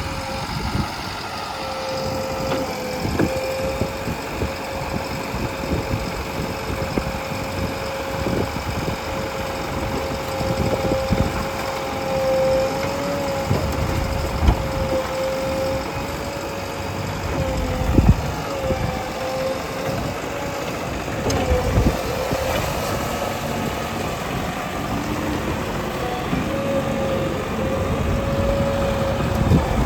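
Heavy diesel engine running steadily, with a held whine that wavers in pitch now and then and a few heavy low thumps, the loudest about eighteen seconds in.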